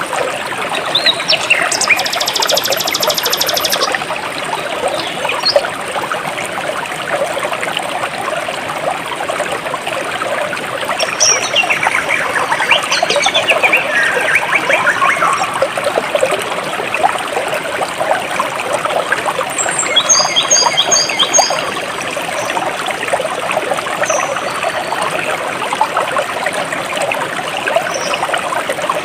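Stream water flowing and babbling steadily, with birds calling over it: a buzzy high trill a few seconds in, whistled calls sliding downward near the middle, and a quick run of high chirps about two-thirds through.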